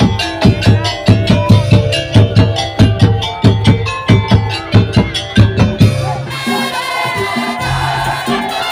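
Madurese musik daul percussion ensemble playing live: rapid, driving drum strikes for about six seconds, then the pattern breaks into held melodic tones over a steady rattling shaker.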